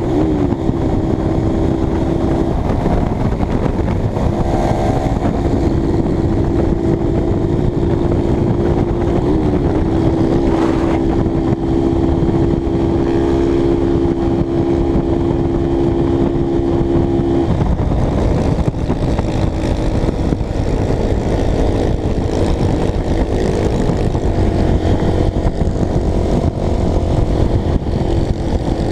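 Honda CBX 250 Twister motorcycle engine running at a steady cruising speed under heavy wind rush on the microphone. Its pitch dips briefly twice, and the engine tone grows fainter after about two thirds of the way through.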